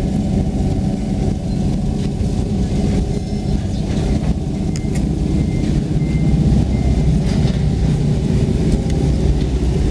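Toyota Aristo engine running steadily with an even, unchanging note.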